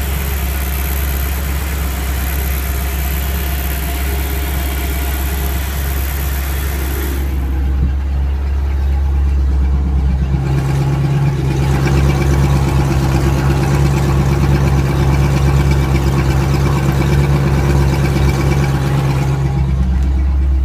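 Engine of a 1989 Four Winns Sundowner idling smoothly once warm, choke off, run out of the water on flushing muffs. About ten seconds in its note changes to a steadier, slightly louder hum.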